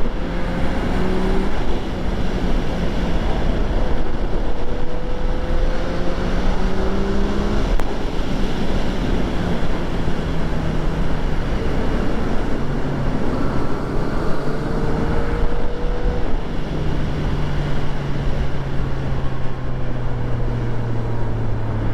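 Yamaha FZ-09's 847 cc inline three-cylinder engine under way, its pitch climbing and dropping repeatedly as it is ridden through the gears, over a steady wind rush.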